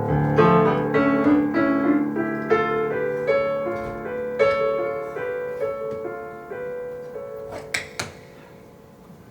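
Piano playing a slow introduction, notes struck one after another and gradually dying away. Near the end come two sharp taps about a third of a second apart, from tap shoes.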